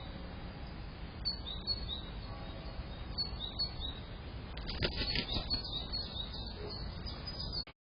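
Small birds chirping in short, high, repeated calls that come in little groups, over a steady background hiss. There is a brief burst of rustling noise about five seconds in, and the sound cuts off abruptly near the end.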